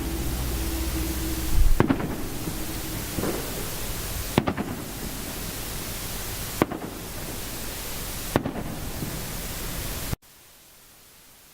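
Fireworks going off: about five sharp bangs a second or two apart over a steady hiss. The sound cuts off suddenly about ten seconds in.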